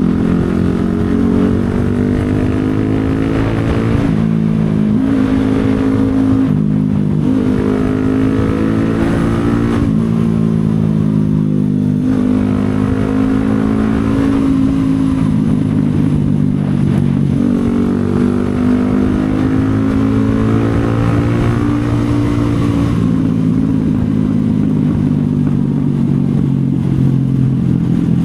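CFMoto 250SR Lite's single-cylinder engine under way, its revs climbing and dropping back several times as the rider accelerates and shifts gears.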